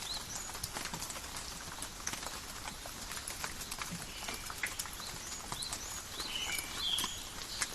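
Forest rain: many separate drops ticking and dripping on leaves and surfaces over a soft steady patter. Short high bird chirps run through it, with a few held higher notes in the second half.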